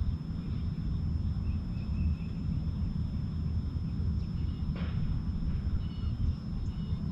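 Steady low rumble of outdoor background noise on a fishing boat on open water, with a few faint, short bird chirps.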